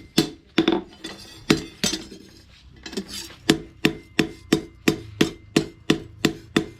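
Blacksmith's hand hammer striking steel in clinking, ringing blows. The blows are irregular at first, then about halfway in settle into a steady rhythm of about three a second.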